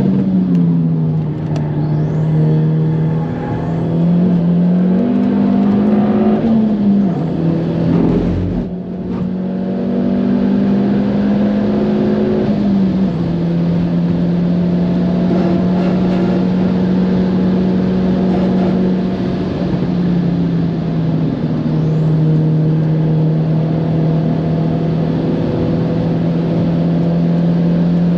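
Abarth Grande Punto's turbocharged 1.4 T-Jet four-cylinder engine pulling hard at track speed. Its pitch climbs and drops several times with throttle and gear changes, and there is a brief lift about eight seconds in. Faint turbo whistles rise over the engine note now and then.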